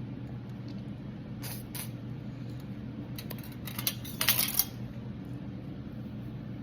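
Several light clicks, then a short bright metallic clatter about four seconds in, like small hard objects clinking on a hard surface. A steady low hum runs underneath.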